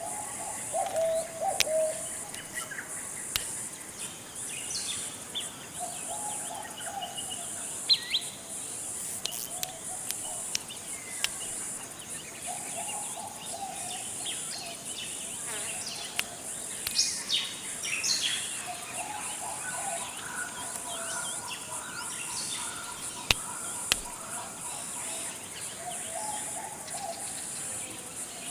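Forest bird chorus: a low warbling call phrase repeated every few seconds and scattered higher chirps and whistles, over a steady high-pitched insect drone.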